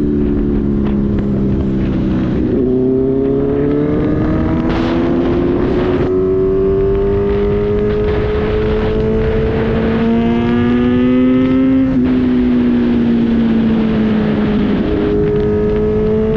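Kawasaki Z900's inline-four engine with an Arrow exhaust running hard under load. Its pitch falls briefly, then climbs slowly for about ten seconds with a few small steps, drops sharply around twelve seconds in, and climbs again near the end. A low wind rumble runs beneath it.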